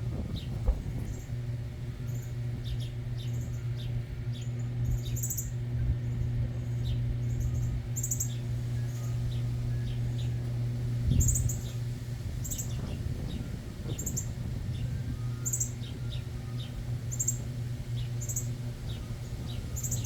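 Small backyard birds chirping: short, high-pitched chirps repeating about once or twice a second, over a steady low hum.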